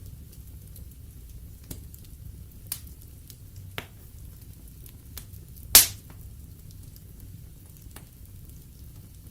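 Wood fire in a fireplace crackling: a steady low rumble of burning logs with scattered sharp pops, one much louder pop about six seconds in.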